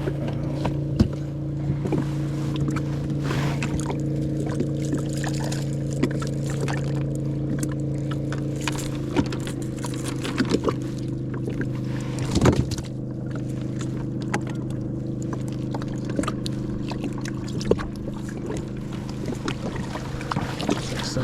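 Steady motor hum with several even tones that never change in pitch, over scattered light clicks and knocks from handling gear on the kayak, with one louder knock about halfway through.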